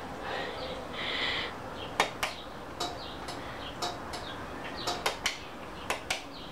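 A run of about ten sharp clicks or taps at uneven spacing, some in quick pairs, starting about two seconds in, with a short hiss about a second in. No opener motor is running.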